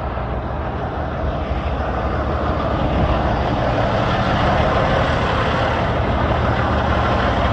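Heavy diesel engine running steadily at a low drone, gradually getting louder.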